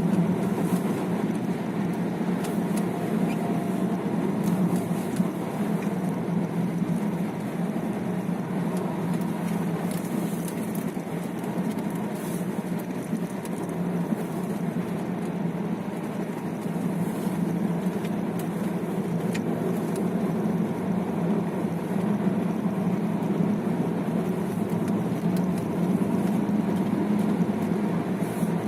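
Steady engine hum and tyre road noise inside the cabin of a car driving along a road.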